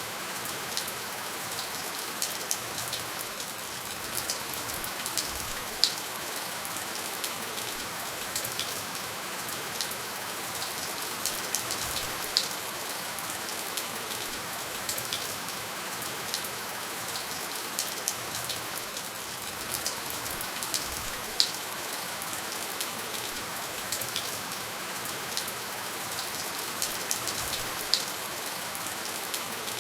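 Steady rain falling, with no thunder: an even hiss of rainfall with many scattered drop ticks, a few of them sharper and louder than the rest.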